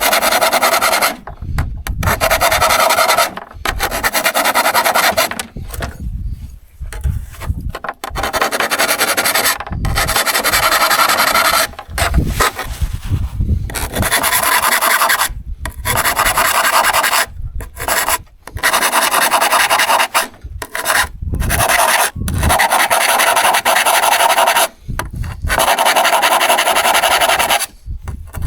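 Repeated rasping hand strokes of abrasive work on a steel saw, each pass about one to two seconds long with short pauses between.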